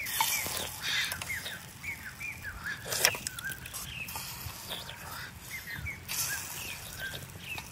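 Small birds chirping repeatedly in short, rising and falling notes, with a single sharp knock about three seconds in.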